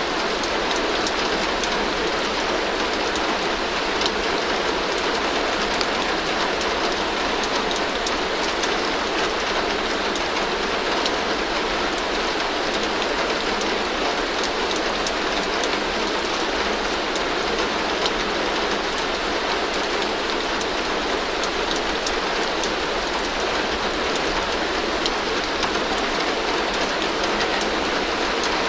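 Heavy rain falling steadily on a tin roof: a dense, even patter with sharp ticks of single drops striking the metal and a low rumble underneath.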